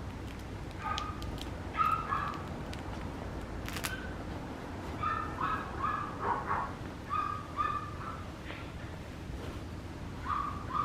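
Papillon puppy giving short high-pitched yips in several clusters. There is one sharp click about four seconds in.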